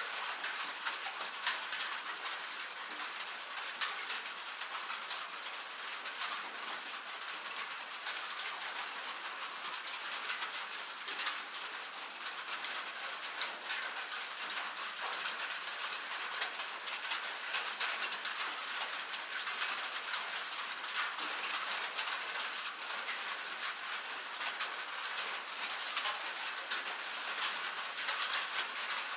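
Steady rain on a metal roof: a dense, even patter of drops with many sharp ticks.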